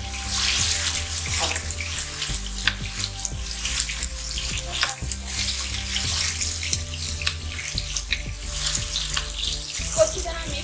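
Chopped tomatoes sizzling in hot oil in a non-stick wok, stirred with a wooden spatula that scrapes and knocks against the pan now and then.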